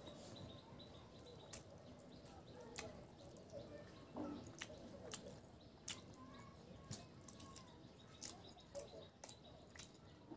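Faint eating sounds of a person chewing rice and pork curry: scattered soft wet clicks and smacks, irregular, about one a second, over a quiet room.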